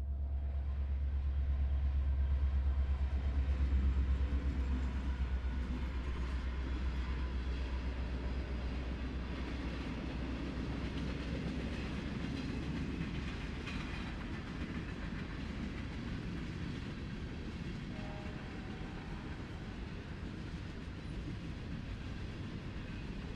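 Train with diesel locomotives passing: the locomotives' low engine rumble is loudest about four seconds in and fades by about halfway, while the cars roll on with a steady clickety-clack of wheels on the rails.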